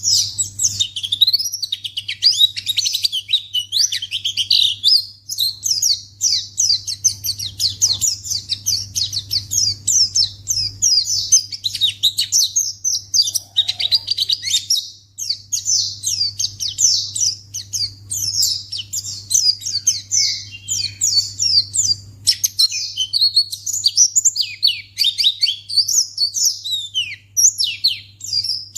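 White-eye (pleci) singing a rapid, continuous run of high chirps and twitters, with a steady low hum underneath.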